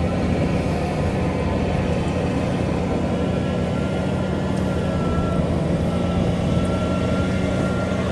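Tractor engine running steadily, a continuous low hum with an even pulse, with a faint thin whine in the middle.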